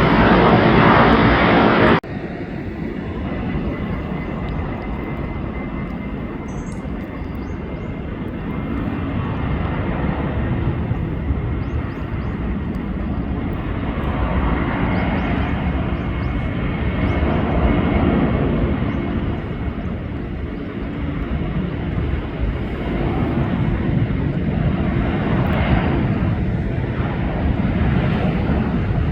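Jet engines of a Boeing 767-300ER freighter at takeoff power, a steady low rumble that slowly swells and ebbs. A louder sound before it cuts off sharply about two seconds in.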